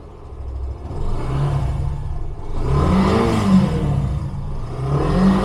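Yamaha FZ-S V2's air-cooled, fuel-injected single-cylinder engine revved up and down from idle about three times. It runs smoothly, which the seller takes as a sign that the engine is in very good condition.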